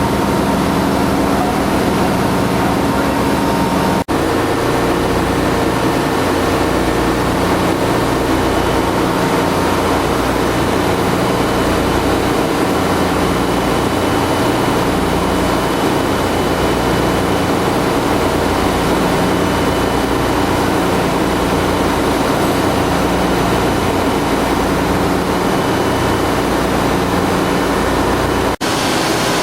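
Loud, steady machinery din of a ship's engine room, with a low rhythmic throb running under it. It breaks off briefly twice, about four seconds in and near the end.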